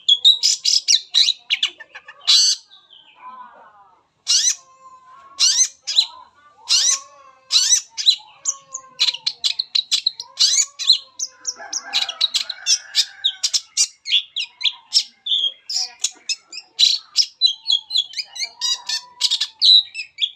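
Long-tailed shrike (cendet) singing a fast, unbroken run of chirps, trills and harsh notes, a varied song that strings together imitated calls of other birds.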